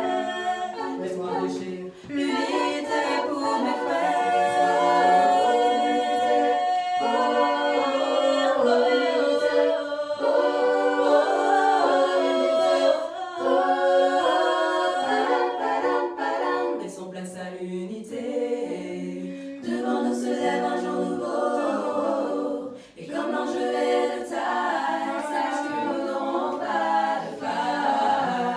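A cappella vocal group singing in several-part harmony, voices only with no instruments. A long note is held a few seconds in, and the singing briefly drops away twice.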